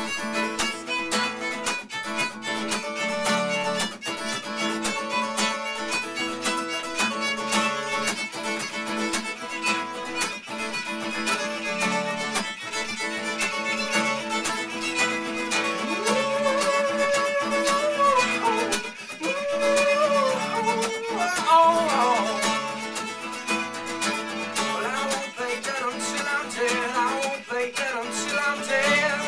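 Instrumental break of an acoustic pop song: strummed acoustic guitar under a violin melody, which slides between notes about two-thirds of the way through.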